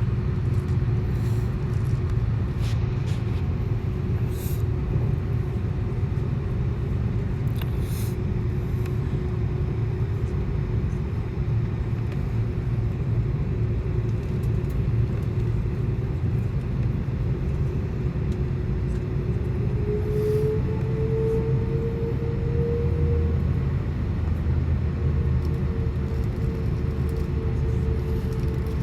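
Airbus A330-200 cabin noise heard from a window seat: a steady low rumble of engines and airflow with a constant hum. About twenty seconds in, a tone rises slightly in pitch and then holds steady.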